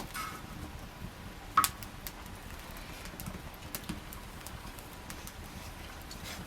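Wood fire crackling, with scattered sharp pops and one loud snap about a second and a half in.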